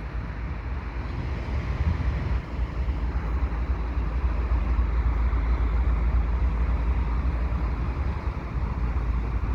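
Steady low rumble of a diesel-hauled freight train moving very slowly, led by two GE ES44AC locomotives.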